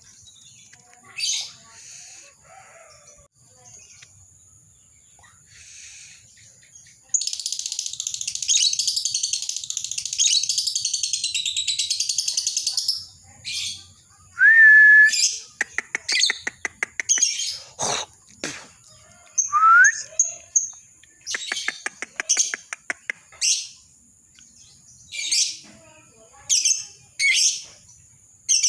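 Lovebird singing. Its long, fast chattering trill (ngekek) runs for about six seconds starting a quarter of the way in. Short sharp shrieks, quick clicking rattles and two brief rising whistled notes follow.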